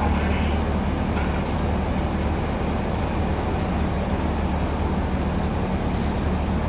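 Steady low rumble and hum of a moving tram heard from inside the car, wheels running on the rails with a faint click or two.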